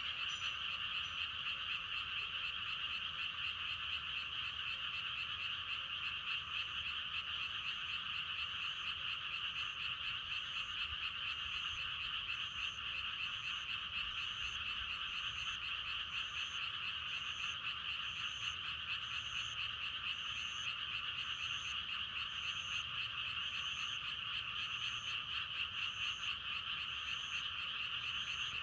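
Dense chorus of many frogs croaking without a break, a steady rapid trill. A short higher call repeats above it about once every second and a quarter.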